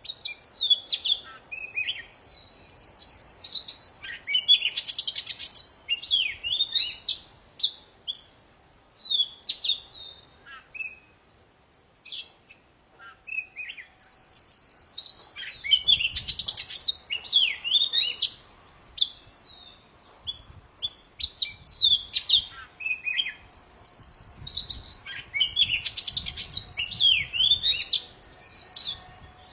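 Oriental magpie-robin of the 'poci' kacer variety singing a long, varied song of rapid whistles, trills and twittering phrases. The song comes in bursts with short pauses between them.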